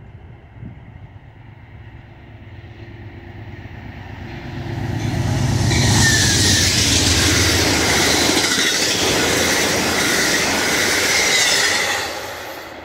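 Amtrak GE P42DC diesel locomotive and its passenger cars passing close by at speed. The sound builds from a distant rumble to a loud rush of engine and wheels about five seconds in, then drops off sharply near the end.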